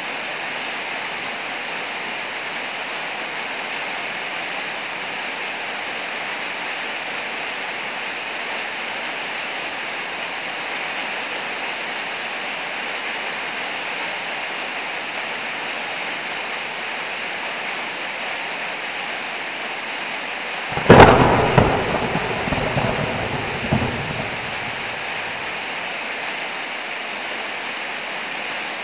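Steady heavy rain, with a sharp close thunderclap about two-thirds of the way through that rolls into a rumble lasting a few seconds before fading back under the rain.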